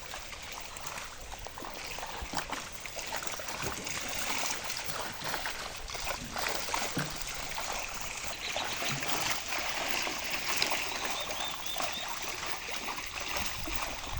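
Pond water splashing and trickling, with many small irregular splashes.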